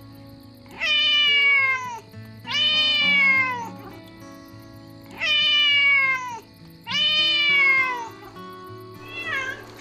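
Kitten meowing: four long meows of about a second each, each falling in pitch, then a shorter, fainter one near the end, over soft background music with sustained notes.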